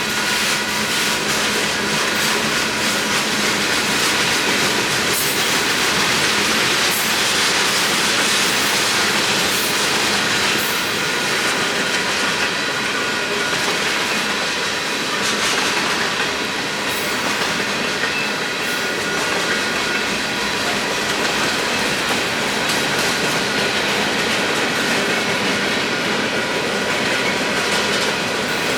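Union Pacific freight train rolling steadily past, its wheels clacking over the rail joints, with steady high-pitched wheel squeal throughout.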